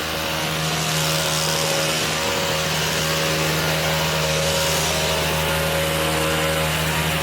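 Small petrol engine running steadily at high speed, with an even hum and a rushing noise over it, slowly growing louder.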